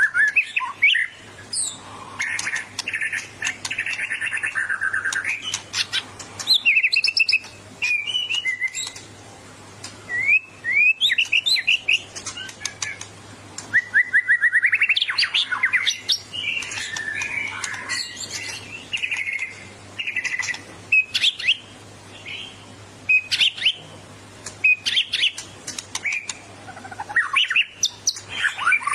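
White-rumped shama (murai batu) singing a long, varied song of rapid trills, rising sweeps, whistles and rattles, one phrase after another with hardly a pause, over a faint low hum. This is the full challenging song that murai keepers read as the bird being ready to fight a rival.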